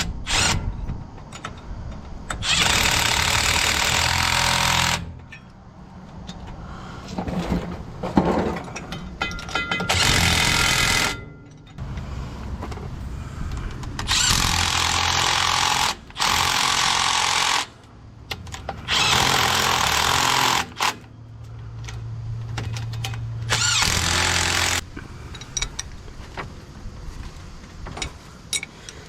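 Impact wrench running in about six bursts of one to two and a half seconds each, with pauses between, as the drive shaft's bolts are run in and tightened.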